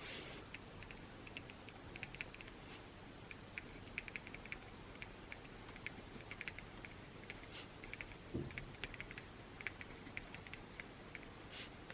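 Pen writing on paper: quick faint scratches and ticks in short runs as words are written, with one dull knock on the desk about eight seconds in.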